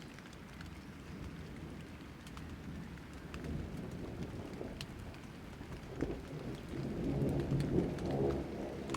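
Rain falling steadily with rolling thunder. The low rumble of the thunder swells about six seconds in and grows louder toward the end.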